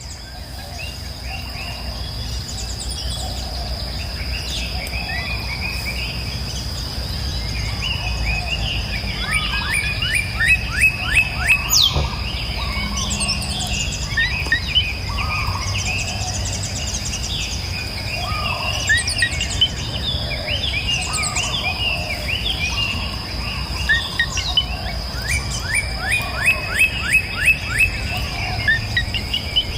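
Wild birds calling and singing in a mixed chorus over a steady high-pitched insect drone and a low outdoor rumble. A bird gives a fast run of repeated notes about ten seconds in and again near the end.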